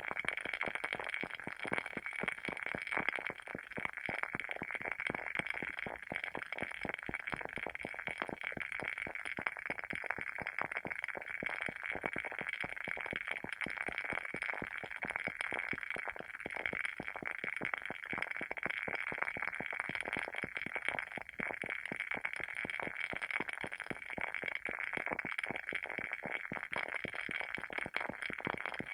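Wooden wick of a WoodWick candle crackling as it burns: a steady, dense stream of small pops and snaps.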